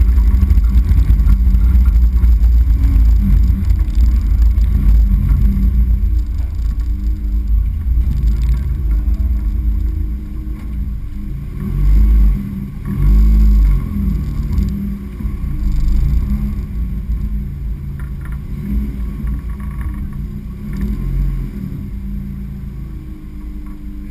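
Turbocharged Renault Sandero 1.6 16-valve four-cylinder with a straight-through exhaust, heard close to the car, running at low revs and easing off so that it grows steadily quieter. Two brief, loud low booms come about halfway through.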